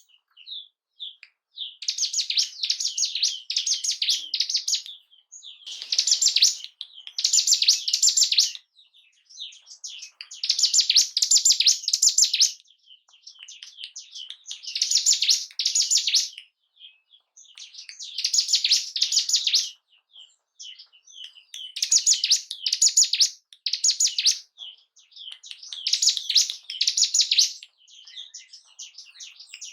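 Ciblek gunung singing: bursts of rapid, high chattering notes, each lasting a second or two and repeated about every four seconds, with short single chirps in between. It is a lure recording meant to rouse a caged bird's breeding drive and aggression.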